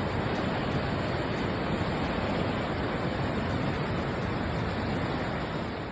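Floodwater rushing steadily over a submerged road: a constant, even roar of fast-moving water.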